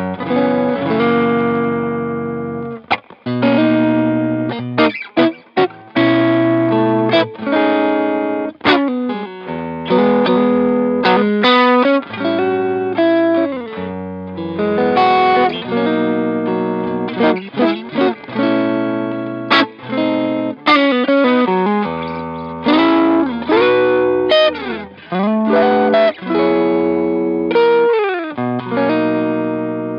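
Fender Custom Shop Telecaster electric guitar played through an overdriven amp tone. It rings out sustained chords and melodic phrases, with short stops between them and several slides in pitch.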